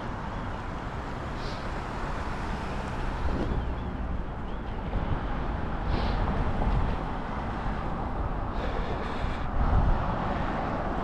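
Steady outdoor riding noise from a moving bicycle: wind rumble on the microphone and rolling noise, with a few short high chirps and a louder gust near the end.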